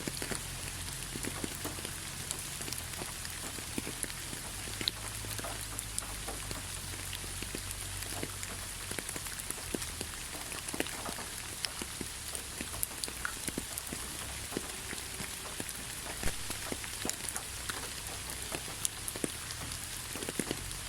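Steady rainfall with many individual drops pattering and ticking on nearby surfaces over a constant hiss.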